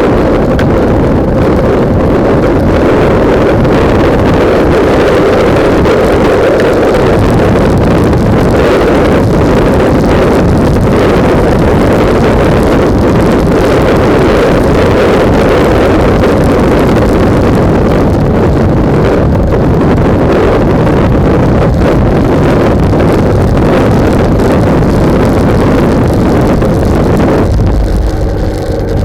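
Heavy wind buffeting on the microphone of a camera mounted on a moving motorcycle, with the bike's engine running underneath. The wind eases briefly near the end.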